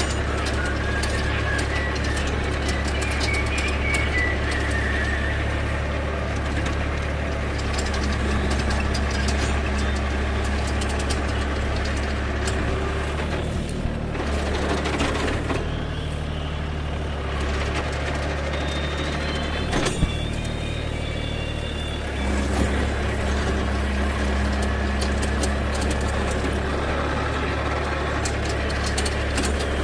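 Force Orchard mini tractor's diesel engine running steadily while driving a rotavator. The engine note shifts lower for several seconds around the middle, and there is one sharp knock about 20 seconds in.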